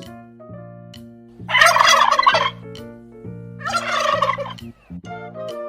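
Domestic turkey gobbling, two rattling gobbles about two seconds apart, over light background music.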